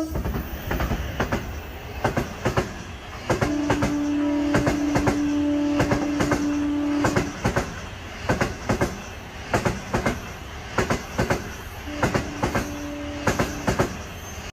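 A passenger train running, its wheels clacking rhythmically over rail joints above a steady running rumble. A steady drone-like tone comes in twice, for about four seconds and then for about two seconds, typical of wheel squeal.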